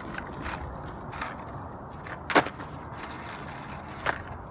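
Strong wind rumbling on the microphone, with a few sharp clacks or knocks on top, the loudest about halfway through and another near the end.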